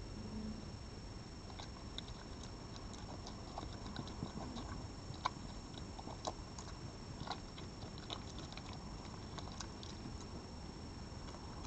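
An animal chewing and crunching food at the feeding spot: irregular crisp clicks and crunches over a steady low background hiss, with a faint constant high whine.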